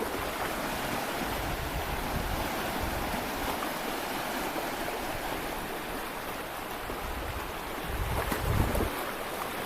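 Sea waves washing against a rocky shore, with wind buffeting the microphone in low rumbles that grow stronger about eight seconds in.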